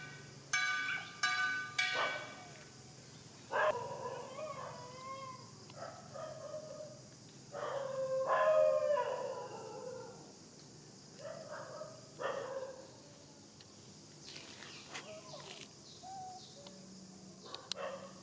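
Macaque cries: a series of drawn-out, wavering calls, the loudest about eight seconds in.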